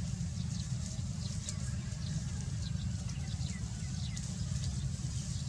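Small birds chirping over and over in short, falling high notes, several a second, over a steady low rumble.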